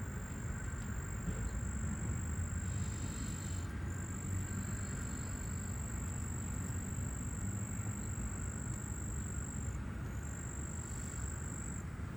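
Evening outdoor ambience: a steady low rumble with a continuous high-pitched insect trill over it. The trill breaks off briefly twice, about four and ten seconds in.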